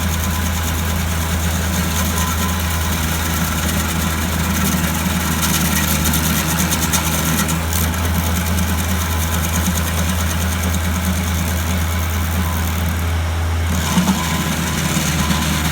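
An engine running steadily at an even idle, with a brief knock and a slight change in its note near the end.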